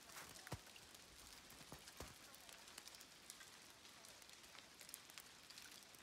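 Small hail falling, faint scattered pattering ticks with a few louder ticks about half a second and two seconds in.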